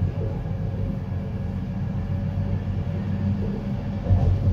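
Passenger train running along the track, heard from on board: a steady low rumble from the wheels and car body, with two louder knocks near the end.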